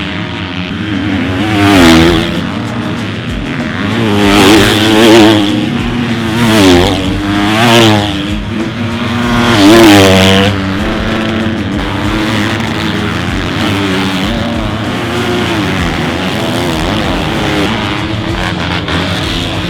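Motocross bikes racing past, their engines revving up and down through the gears in about six loud passes over the first ten seconds. After that, a steadier drone of engines further off.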